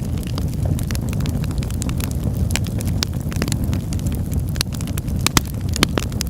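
Wood fire burning in a fireplace: a steady low rumble of flames with irregular sharp crackles and pops, two louder pops near the end.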